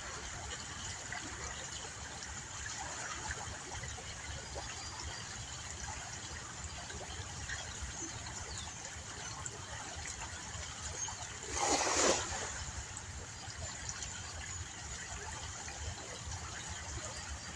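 Steady trickling and flowing of river water. About twelve seconds in there is a brief, louder burst of noise lasting under a second.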